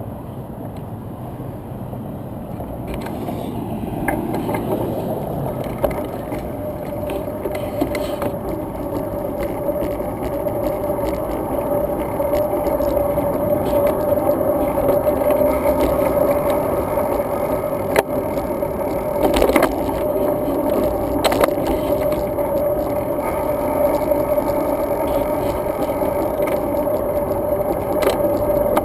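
Road bike riding along pavement: steady tyre and road noise with a hum that builds and gets louder from a few seconds in, broken by a few sharp knocks about two-thirds of the way through.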